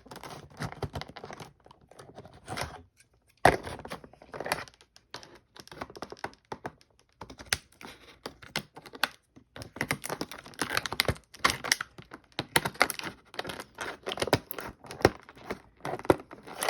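Stiff plastic blister packaging being handled and pried at, giving a dense, irregular run of sharp clicks, snaps and crackles.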